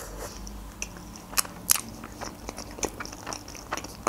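A person chewing a mouthful of mimosa layered salad: mouth sounds with scattered sharp clicks.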